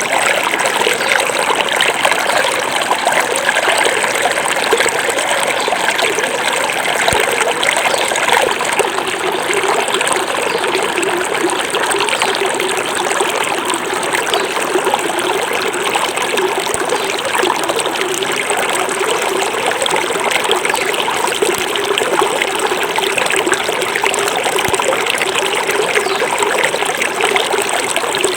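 Small forest river flowing over rocks: a steady babbling and trickling rush of water.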